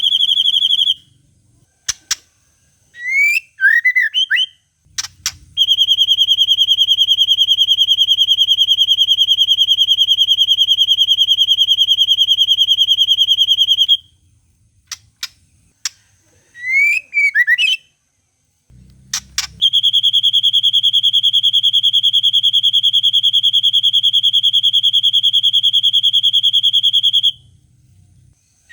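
White-rumped shama (murai batu) singing, mimicking a long cililin trill: two long, very fast trills held at one steady pitch, each lasting about eight seconds. Between them come short sweeping whistled phrases and a few sharp clicks.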